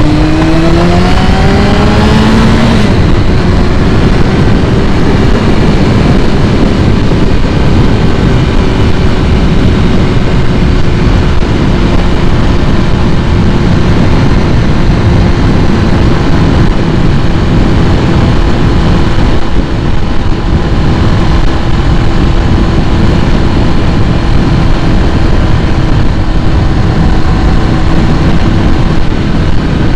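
A 2001 Kawasaki ZX-6R's carbureted inline-four engine revving up over the first few seconds. It then holds a steady note that sinks slowly, under a loud rushing noise.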